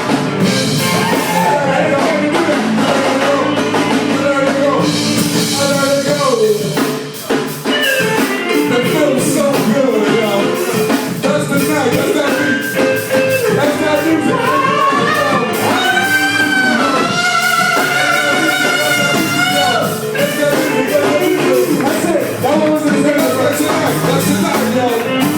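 Live rock band jamming: drum kit, bass and electric guitar playing together, with a singing voice over the music.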